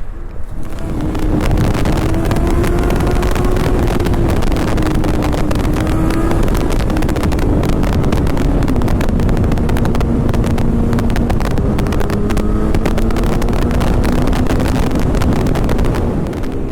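Motorcycle engine running at steady speed under heavy wind buffeting on the microphone; the engine note climbs slightly, drops about a third of the way through, then holds fairly level.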